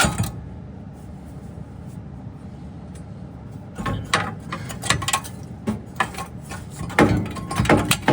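Metal tools and parts clanking and knocking while being worked and handled, in a run of sharp knocks that starts about four seconds in and grows busier near the end.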